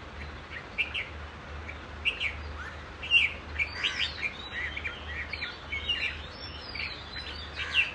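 Small birds chirping and twittering: many short, quick calls with a few sliding whistles, over a steady low hum.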